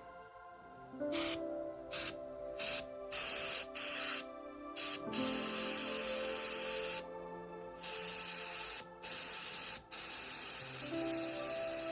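Paint spray hissing, first in several short bursts and then in longer sprays of one to two seconds each.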